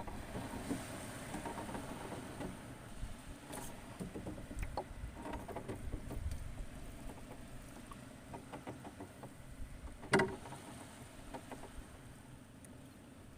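Shallow water sloshing and lapping, with scattered small clicks and knocks. One sharp, loud knock or splash comes about ten seconds in.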